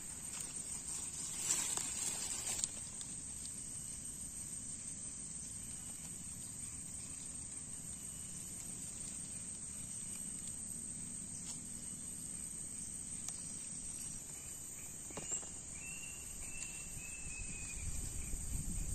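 Insects droning steadily at a high pitch in rural farm ambience. A short burst of louder noise comes about a second in, and a brief high call sounds near the end.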